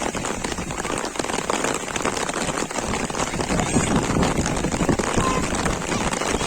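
Heavy rain falling, a dense steady patter of drops.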